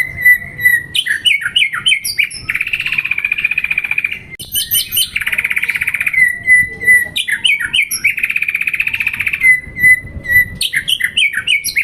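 White-rumped shama (murai batu) singing. A varied song repeats about three times: quick sharp, sliding whistled notes, then a long rapid rattling trill lasting over a second, then a held steady whistle.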